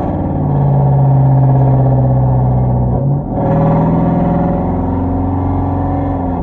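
Straight-piped Hyundai Genesis 5.0 V8 exhaust droning loudly through Flowmaster Super 10 mufflers and 2.5-inch pipe, with no catalytic converters, while the car drives under load. The note briefly dips and breaks about three seconds in, as at a gear change, then picks up again.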